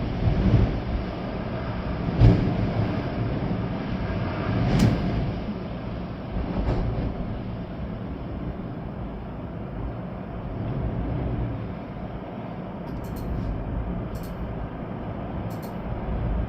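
Storm wind gusting through trees, with rain: a steady rushing noise with stronger gusts about two and five seconds in, settling to a lower, even rush after that.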